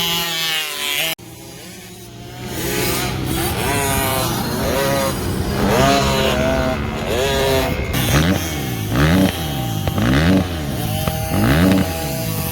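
Dirt bike engines on a motocross track, the revs climbing and falling again and again as the bikes accelerate and back off. Near the end the rise and fall comes about once a second.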